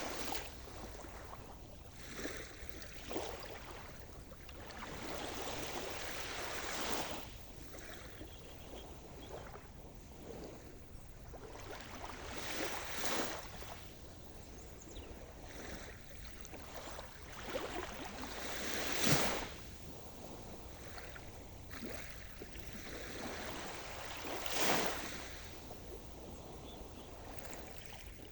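Sea surf: waves breaking and washing in, the rush of water swelling and fading every few seconds. The loudest breaks come about two-thirds of the way through and again near the end.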